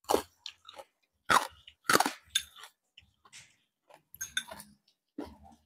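Close-up chewing of a mouthful of rice with crispy fried pork cracklings, a series of about half a dozen sharp, irregular crunches.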